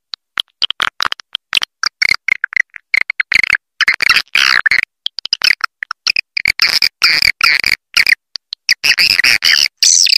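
Recorded swiftlet calls: rapid, rasping chirps and twitters in quick bursts separated by abrupt silent gaps. It is a swiftlet roosting lure call, played to draw swiftlets into a bird house to roost.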